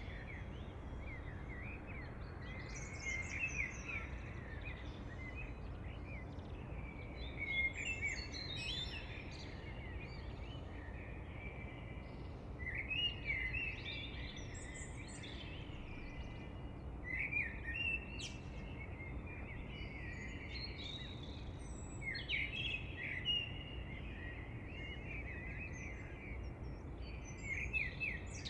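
Several songbirds singing in short, quick chirping phrases that come in bouts every few seconds, over a steady low background noise.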